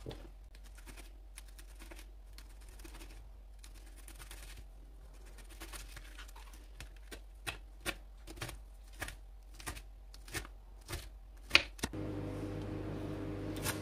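Knife cutting washed collard greens on a cutting board: sharp, irregular chops that get quicker, about two a second, in the second half. Near the end a steady hum starts up underneath.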